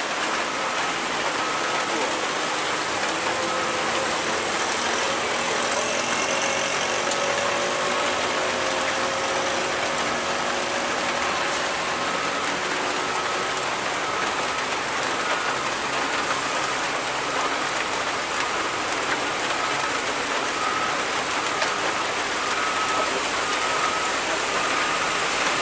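Steady hiss of rain falling. A faint whine glides slowly through it for several seconds, about four seconds in.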